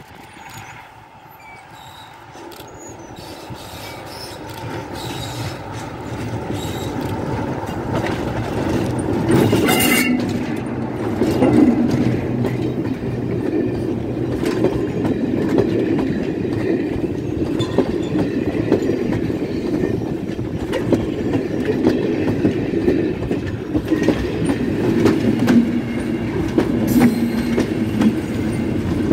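Diesel-hauled passenger train approaching and passing close by, growing steadily louder over the first ten seconds, then a continuous rumble and clatter of coach wheels over the rails with sharp clicks at the joints. Near the end the GB Railfreight Class 73 electro-diesel locomotive on the rear draws level.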